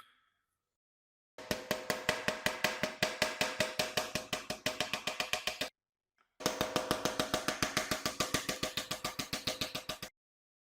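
Rapid, even metallic clicking, about eight clicks a second with a ringing tone under it, in two runs of about four seconds each separated by a short pause: a worked mechanism, such as a ratchet or gear teeth.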